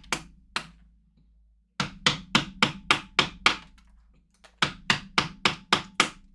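Hammering on wood: quick, evenly paced blows, roughly three a second. There are two strikes at first, then two runs of about six blows each with short pauses between.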